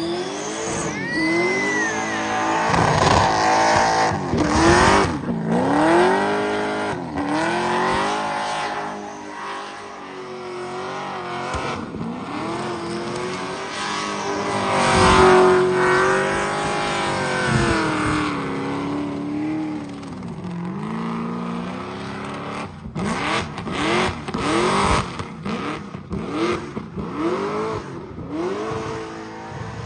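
Burnout car's engine revving hard, its pitch swinging up and down over and over, over the hiss of spinning tyres. In the last several seconds the revs come in short, choppy blips.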